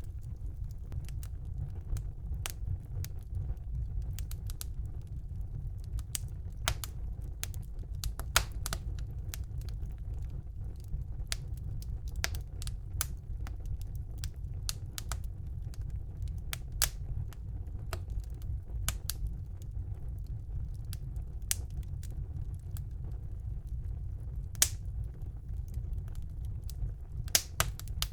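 Wood fire burning in a fireplace: a steady low rumble under irregular sharp crackles and pops, with a few louder snaps scattered through.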